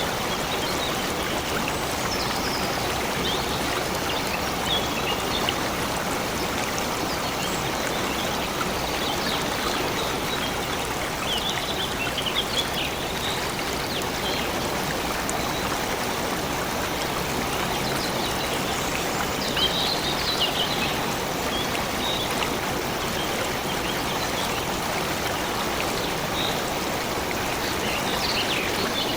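Stream water flowing and trickling steadily, with scattered short bird chirps over it a few times.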